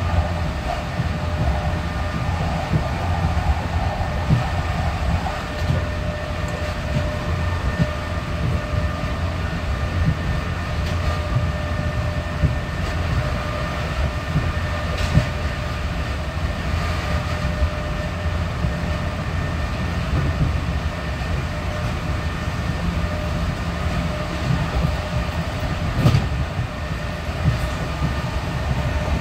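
Class 465 Networker electric multiple unit heard from inside the passenger saloon, cruising at a steady 67 mph. There is a continuous wheel-and-rail rumble with a steady traction-motor whine over it, and a couple of sharp knocks from the track, about halfway through and near the end.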